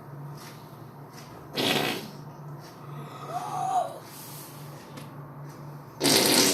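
Fake fart noises made by a person: two short, loud, raspy bursts, one about a second and a half in and one near the end, with a brief rising-and-falling squeak between them.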